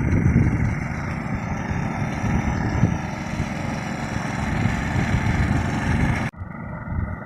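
Two-wheel hand tractor engine running steadily while the tractor works the field. Near the end the engine sound cuts off abruptly and gives way to a quieter hum.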